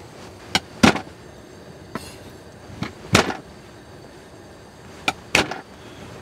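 Tent fabric snapping taut in strong gusts of wind: three double snaps, each a small one followed by a loud one, about two and a half seconds apart, with a fainter snap in between.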